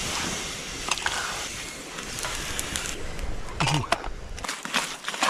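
Campfire crackling with sharp snaps, over a low wind rumble on the microphone that drops away about four and a half seconds in. A brief vocal sound comes about three and a half seconds in.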